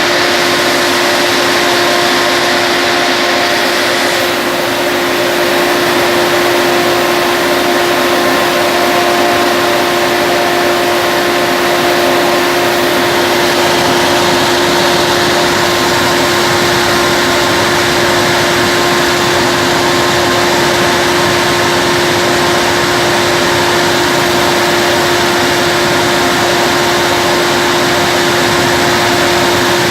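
Peanut dryer with a sunflower-type gas burner running: a loud, steady roar with a constant low hum and fainter higher tones over it.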